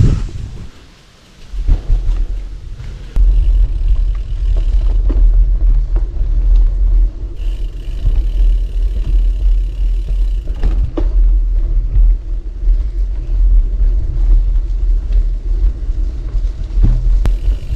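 Steady low rumble of wind on the camera microphone and tyres rolling over gravel as a gravel bike rides along, with scattered clicks and rattles. The level dips briefly about a second in.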